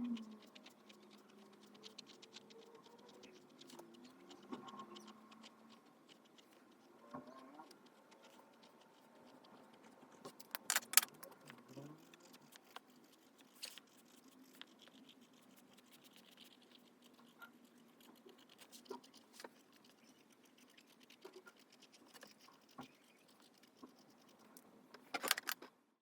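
Faint desk-work sounds: a pen scratching on journal paper with light taps and small clicks, with two brief, louder clatters about eleven seconds in and near the end.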